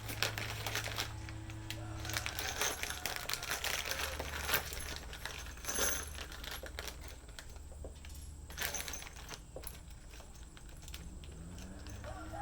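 Small metal hardware (bolts, washers and lock nuts) clinking as it is handled and set down, a scattered series of sharp metallic clicks.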